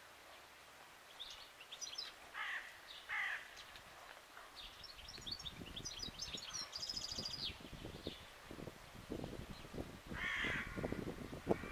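Birds calling in the trees: two harsh, crow-like calls a few seconds in and another near the end, with quick high chirps between. From about five seconds in, an uneven low rumble joins them.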